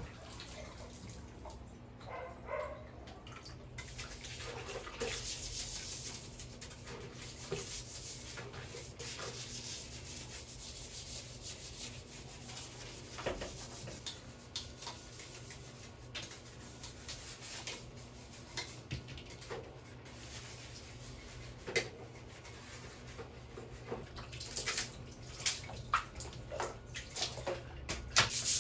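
Household cleaning sounds: water running or splashing, with scattered knocks and scrubbing that get busier near the end.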